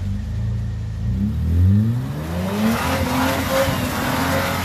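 Nissan Patrol 4WD's engine revving up under load, climbing in pitch over about a second and a half, then held at high revs with tyres churning in mud as it drives up out of a deep rut.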